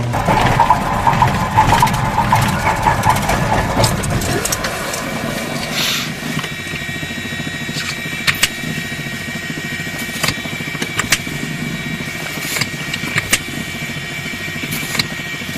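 Piper Warrior light aircraft's engine being cranked: about four seconds of rough, irregular cranking noise that stops without the engine catching. A steady high whine with scattered sharp clicks follows.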